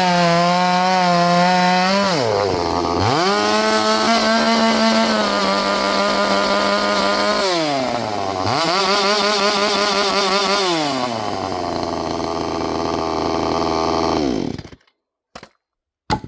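Vevor 6220 gas chainsaw's two-stroke engine revved to full throttle three times with drops to idle between, then idling for a few seconds before cutting out abruptly. A couple of short knocks follow.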